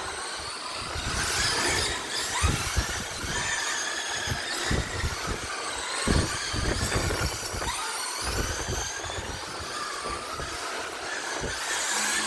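Several radio-controlled race cars' motors whining around a track, the pitch of each rising and falling as they speed up and slow down through the laps, with low rumbling underneath.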